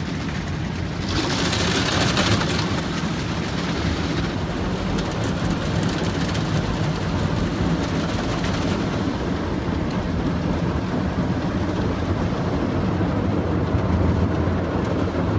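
Automatic car wash machinery running over the car, heard from inside the cabin: a steady wash of water spray over a low rumble, with a harder, hissier burst of spray about one to four seconds in.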